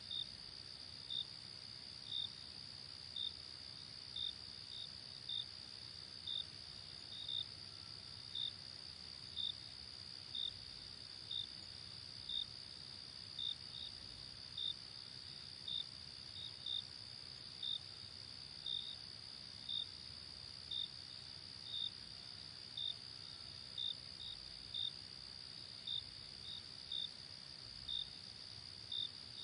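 Night crickets: a steady high-pitched trill with short chirps repeating about once a second, some chirps coming in quick pairs, over a faint low hiss.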